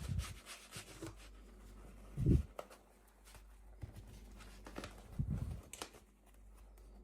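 Unboxing handling noises: three soft low thumps, one just after the start, one around two seconds in and one about five seconds in, with light clicks and packaging crinkles in between.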